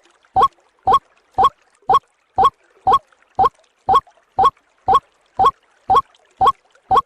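White-breasted waterhen (ruak-ruak) call as played on a bird-lure recording: a short rising note repeated steadily about twice a second.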